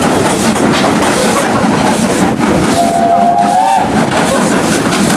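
Steam-hauled heritage train running, heard from a passenger carriage: a steady, loud rumble and rattle of the coaches on the track. About three seconds in, a brief high tone sounds for about a second.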